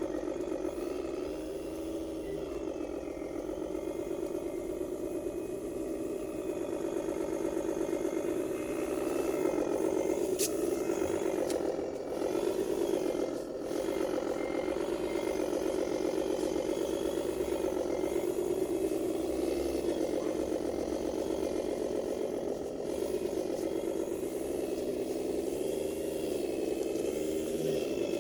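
1:14 scale radio-controlled MAN 8×4 dump truck driving, with a steady mechanical hum from its drivetrain whose pitch wavers up and down as its speed changes, and some rattling and scraping. A couple of sharp clicks come about ten to twelve seconds in.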